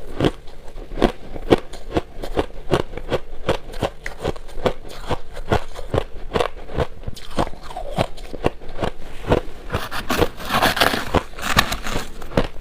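Shaved ice being bitten and chewed close to the microphone: a fast run of sharp crunches, about four a second, turning into denser, brighter crunching about ten seconds in.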